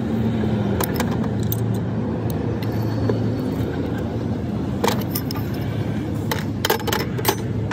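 Metal tools and parts clinking against each other in a few sharp knocks, most of them near the end, over a steady low machine hum.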